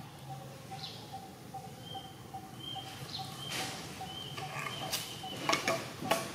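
Outdoor ambience of small birds giving short, high chirps repeated several times over a faint steady pulsing background, with scratchy rustling and clicks growing louder near the end as the monkey shifts its body.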